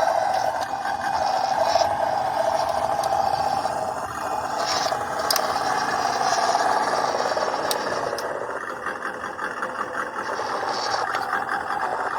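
A WPL B14 RC truck's small electric motor and two-speed gearbox whine steadily as it drives, with scraping and rattling from the chassis and drivetrain. The whine dips in pitch and level about two-thirds of the way in, then picks up again.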